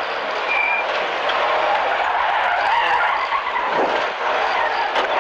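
Rear-wheel-drive Mk3 Ford Escort rally car's engine running hard between bends, heard from inside the cabin, with a steady hiss of the tyres sliding over the loose stage surface.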